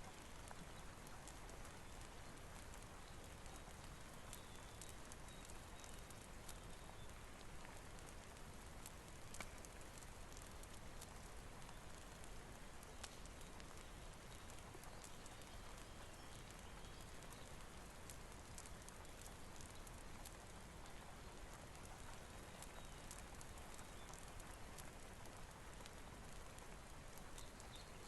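Steady rain with a wood fire crackling: an even hiss of rainfall dotted with many small pops and clicks.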